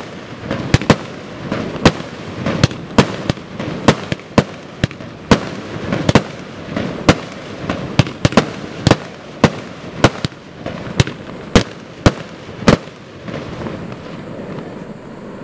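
Firework cake '8899 Classic Cars' firing a rapid series of shots: sharp bangs about one to two a second over a continuous noisy rush. The shots stop about two seconds before the end, leaving only the fading rush.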